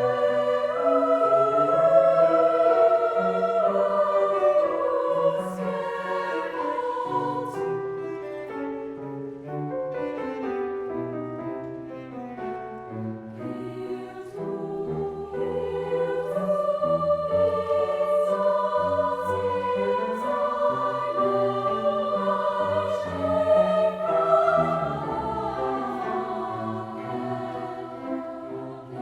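A mixed choir singing in parallel sustained parts, softening in the middle and swelling again near the end.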